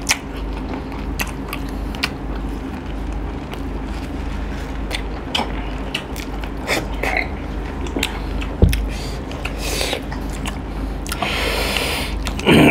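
Close-up chewing and mouth smacking of people eating chicken curry and rice with their hands, in scattered short clicks and wet smacks over a steady low hum.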